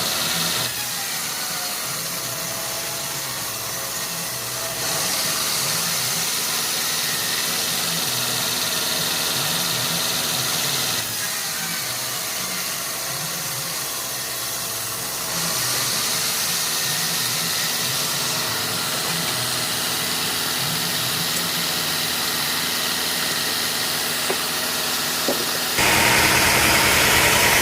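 Sawmill machinery running: a steady engine drone with hiss, shifting abruptly in level and tone several times and getting louder and harsher near the end.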